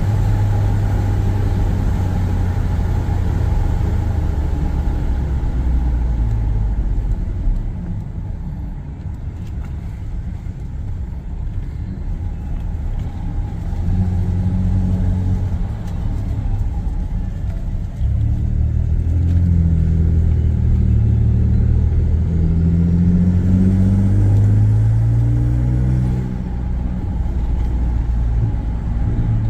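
2018 Ford F-150's 3.5 EcoBoost V6 with an AWE 0FG exhaust and Borla resonator, heard from inside the cab while accelerating from a take-off. The exhaust note climbs in pitch and drops back at each upshift, about three times.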